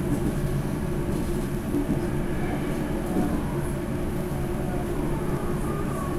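Running noise of a 373 series electric multiple unit heard inside the car on its deck, a steady rumble as the train rolls slowly through a track-work section.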